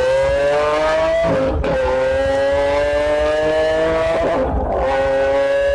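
High-revving car engine accelerating hard under full throttle, its pitch climbing steadily, with two brief breaks for upshifts about a second and a half in and again near the end.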